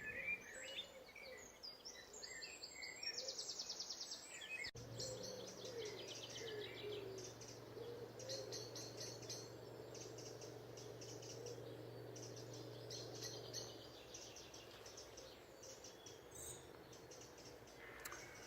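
Dawn chorus: several songbirds singing at once in short phrases and chirps, with a fast trill about three seconds in. A steady low hum runs under the birdsong from about five seconds in until near fourteen seconds.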